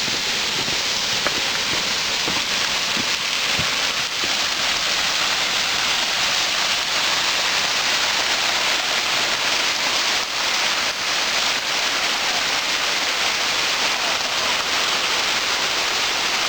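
Waterfall's falling water rushing in a steady, even hiss that holds at one level throughout.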